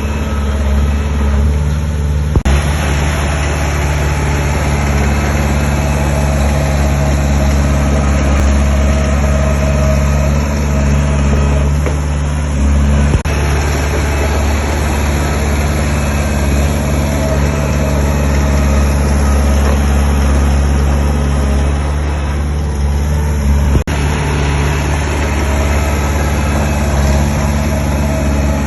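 Heavy diesel engine of construction machinery running steadily, with a few brief knocks from the work.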